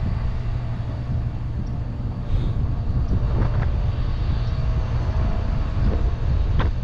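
Steady low rumble of wind and road noise while riding a bicycle along a paved road.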